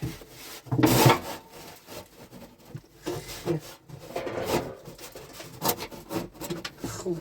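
Irregular scraping and rubbing, one hard material dragged against another, with the loudest scrape about a second in.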